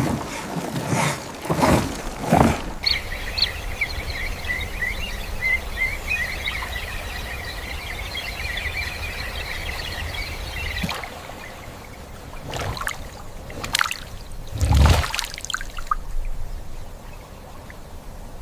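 Birds chirping rapidly for several seconds over a steady low rumble, with brief rushing sounds before and after and one loud thump about three-quarters of the way through.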